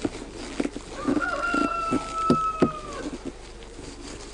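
A rooster crowing once, a drawn-out call of about two seconds that rises slightly and then slowly falls, over several sharp knocks and clicks from working the beehive's stuck lid.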